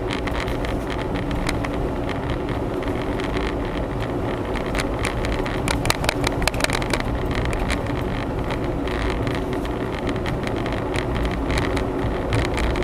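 Cabin noise of a Honda Zest kei car on the move: steady engine and road hum, with frequent short rattles, thickest around the middle.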